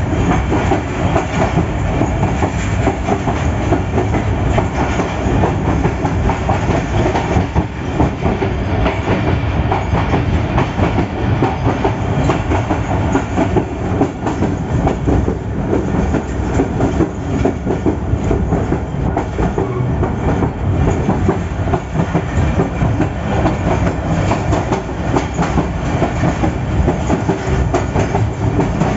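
PHA-20 locomotive running at speed, heard from its cab: a steady rumble of engine and wheels on the rails with a constant rattling clatter.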